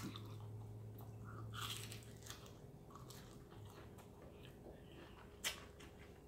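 Close-up chewing and crunching of fried, breaded shrimp, with a louder crunch about a second and a half in and a sharp click near the end. A low hum sits under the first two seconds.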